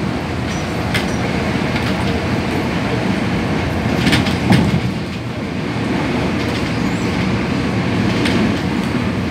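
Hong Kong MTR train running at speed, heard from inside the passenger carriage: a steady rumble with a few sharp clicks.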